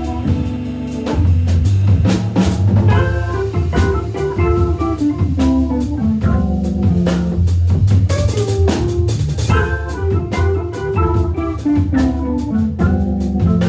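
Live jazz organ trio playing: Hammond B3 organ, electric guitar and drum kit. Low organ bass notes move under a melodic line, with busy drumming throughout.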